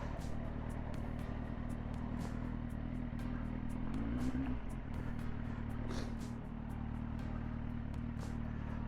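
Kawasaki motorcycle engine running steadily at low revs while riding slowly, with a brief rise in revs about four seconds in.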